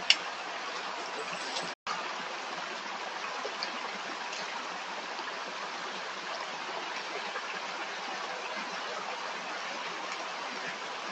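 A stream running steadily over stones, a constant rush of water. A sharp click sounds right at the start, and the sound drops out completely for a split second about two seconds in.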